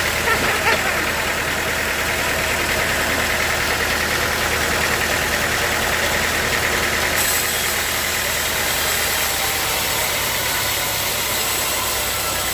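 Engine-driven sawmill machinery running steadily, a constant low engine drone under a broad mechanical noise, with a couple of short knocks in the first second.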